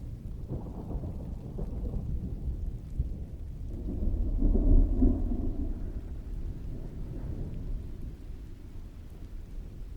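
Thunder rolling over steady heavy rain, swelling to its loudest about halfway through and then dying away.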